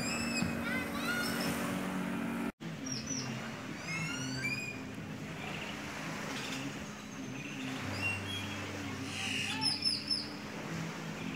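Birds chirping and whistling in quick rising and falling notes over a steady low hum. The sound cuts out for an instant about two and a half seconds in.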